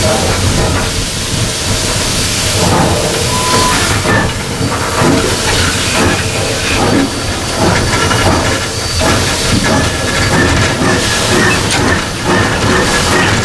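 Cab of a Ww-class 4-6-4T steam tank locomotive: steam hissing loudly, then from about four seconds in the exhaust beats as the locomotive starts pulling away.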